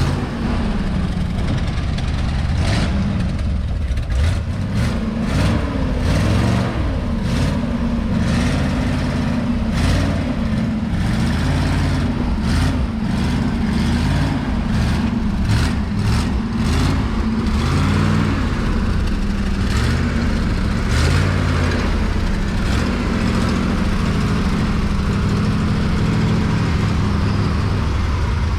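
An engine idling, its speed wavering up and down, with scattered short clicks or knocks over it.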